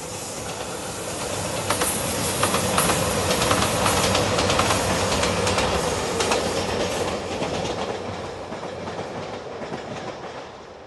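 A passenger train passing by: its rumble builds, the wheels clatter over rail joints through the middle few seconds, then the sound fades as it moves away.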